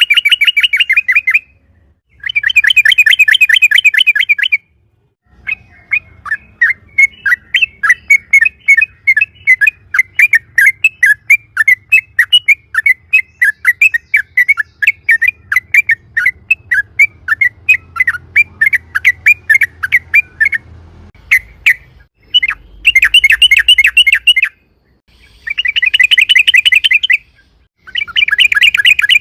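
Yellow-vented bulbul (trucukan) singing in short, rapid chattering rolls. A slower run of separate notes, about three a second, fills the middle for roughly fifteen seconds, and the quick rolls return near the end.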